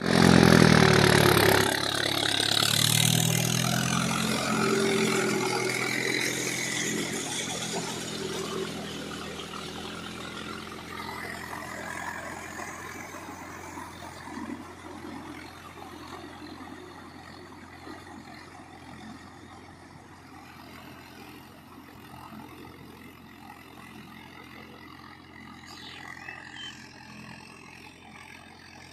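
Mahindra Yuvo 415 tractor's four-cylinder diesel engine running, loud in the first couple of seconds and then fading steadily.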